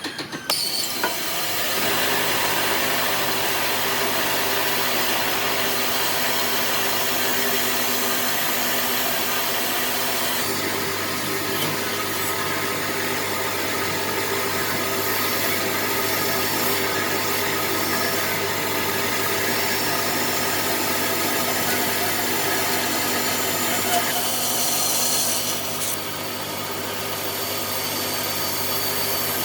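Electric power tool running steadily while working wood, a motor hum under a continuous rubbing, abrasive noise, with a few knocks as it starts. The hiss brightens for a couple of seconds near the end, then eases slightly.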